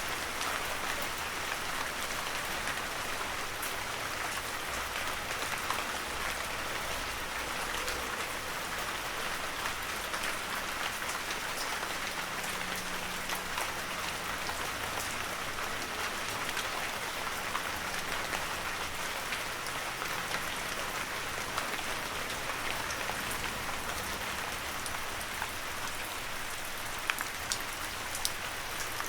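Heavy rain falling steadily, a dense even hiss with a few sharper single drop hits near the end.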